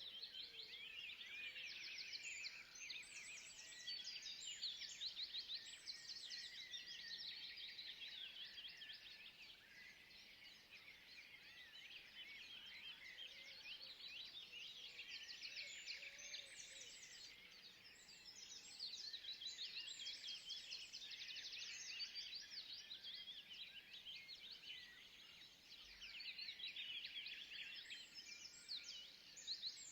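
A dense chorus of small forest birds chirping rapidly and high-pitched, swelling and fading in several waves.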